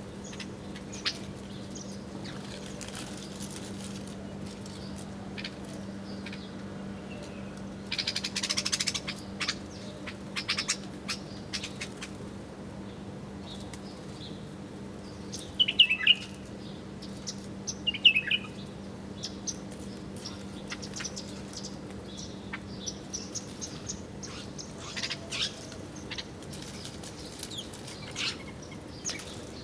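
Small wild birds chirping and calling at a feeding spot, with a rustling flurry about eight seconds in and two loud, short, falling calls later on.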